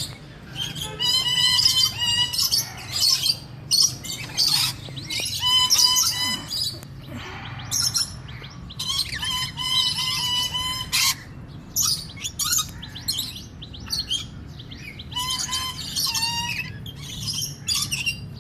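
Swainson's lorikeets calling: repeated harsh, buzzy screeches in short bursts, over a steady low hum.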